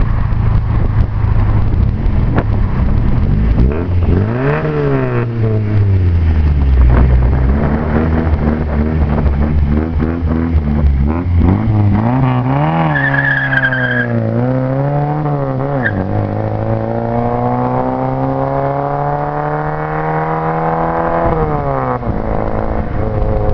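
Chevrolet Chevette's four-cylinder engine with a loud, rumbling exhaust, revved up and down several times. Near the end the revs climb slowly for several seconds, then drop sharply.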